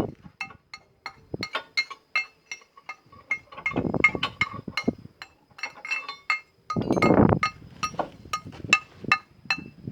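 Metal clinking: a run of light, irregular metallic taps, each with a brief ringing tone, during excavator undercarriage repair work. Two louder, duller noises come in between, at about four and seven seconds in.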